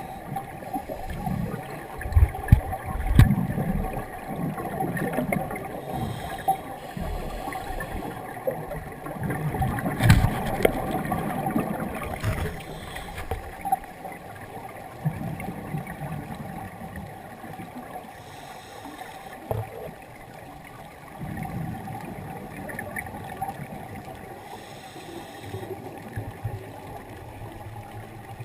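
Underwater sound of a scuba diver breathing through a regulator: exhaled bubbles gurgle and rumble in bursts every several seconds, with brief hissy breaths between.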